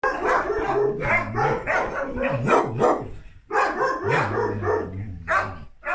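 Dog barking and yelping repeatedly in quick succession, with a short pause about midway.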